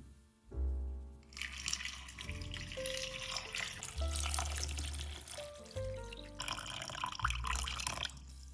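Background music with a bass line, and from about a second in, the steady noise of running water, like a tap flowing into a sink.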